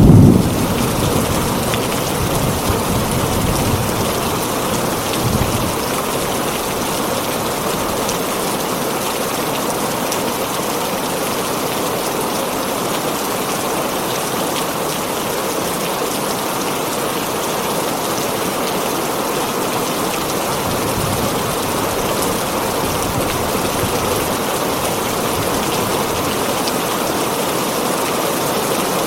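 Heavy rain falling steadily on a tin roof. A roll of thunder dies away in the first second, with a fainter rumble about five seconds in.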